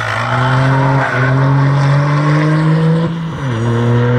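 Toyota GR Yaris's turbocharged three-cylinder engine pulling hard under acceleration, its pitch climbing through the gears, with a short break about a second in and an upshift that drops the pitch about three and a half seconds in before it climbs again.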